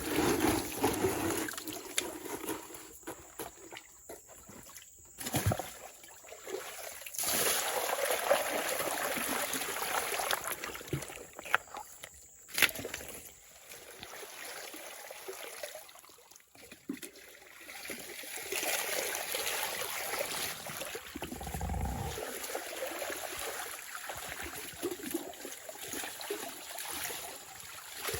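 Water sloshing and trickling in irregular surges, with occasional splashes and a few sharp clicks.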